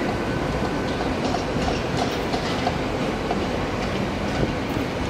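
A GWR Intercity Express Train (Class 800 series) pulling away along the platform line: the steady rumble of the moving train, with light, irregular clicks of its wheels over the track.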